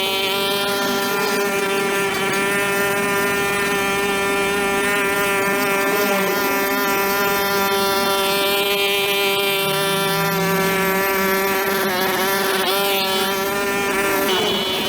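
Brush cutter's small engine running at a high, steady pitch, wavering briefly near the end.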